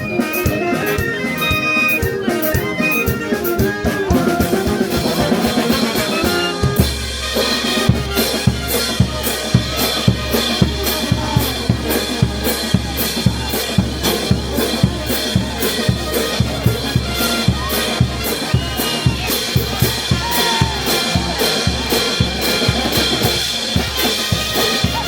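Brass band playing music: a brass melody at first, then about seven seconds in the drums come in with a strong, steady bass-drum beat under the band.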